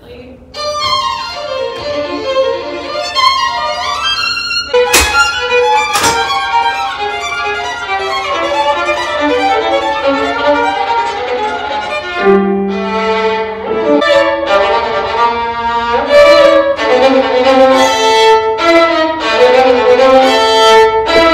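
Violin playing a classical melodic passage, note after note, with two sharp clicks about five and six seconds in.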